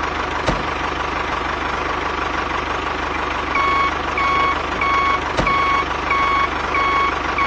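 Vehicle engine running steadily, with a reversing alarm starting about three and a half seconds in and beeping about twice a second. Two sharp clicks are heard, one near the start and one in the middle.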